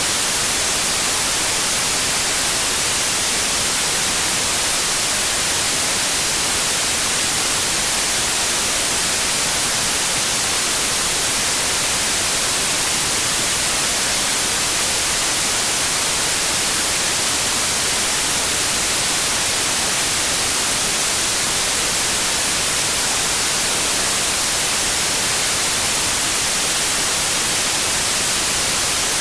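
Steady, unbroken white noise: an even hiss with no pitch or rhythm, strongest in the high frequencies.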